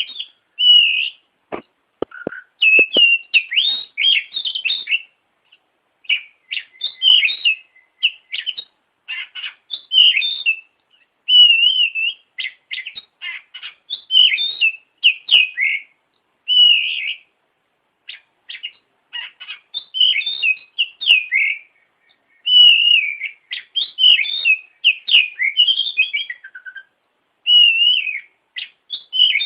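Oriental magpie-robin (kacer) singing continuously: a dense, varied run of rapid chirps, clear whistles and short trills, broken only by brief pauses. A few sharp clicks sound about two seconds in.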